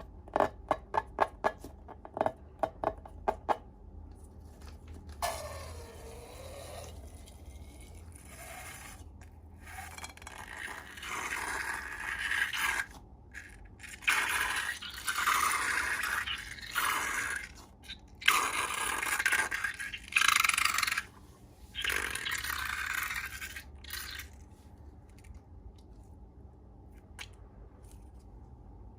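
Slime being handled and stirred: a quick run of sharp sticky clicks and pops at the start, then repeated scraping, squelching strokes lasting a second or two each, which stop well before the end.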